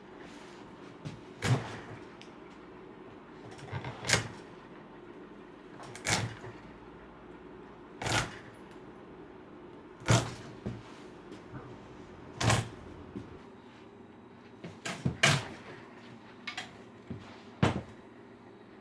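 Sharp knocks about every two seconds, with two close together near the end, from hand work on a wooden dining chair frame during reupholstery. A faint steady hum runs underneath.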